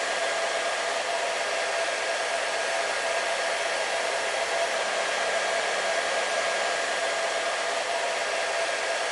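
Hair dryer running steadily: an even whooshing rush of air with a steady motor whine in it, unchanging throughout.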